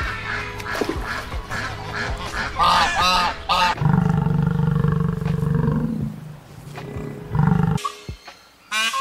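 A flock of white domestic geese honking, quick repeated calls building to several loud honks about three seconds in. Then a water buffalo bellows, one long low call of about four seconds. A peacock's loud call begins at the very end.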